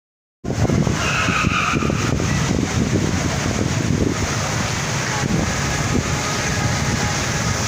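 Steady heavy rain mixed with street traffic noise, starting suddenly about half a second in. A brief high tone sounds about a second in.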